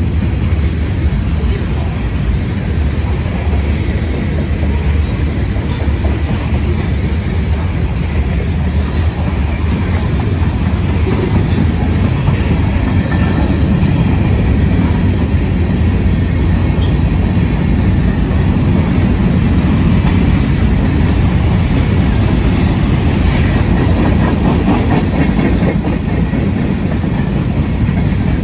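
Freight cars of a CSX mixed freight train, mostly covered hoppers, rolling past close by: a steady heavy rumble and clatter of steel wheels on the rails, with faint wheel squeal.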